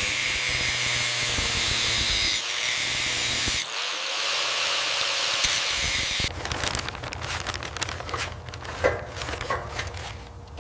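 A power tool running steadily with a loud hiss for about six seconds, then quieter scraping with scattered clicks and knocks.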